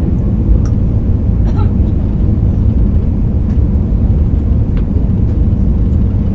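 Airliner cabin noise in flight: a loud, steady low rumble of engines and airflow, with a faint steady hum and a few small clicks.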